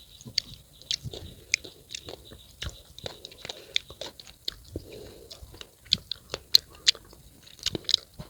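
Close-up chewing and biting of crisp unripe fruit: a steady run of irregular short crunches and clicks.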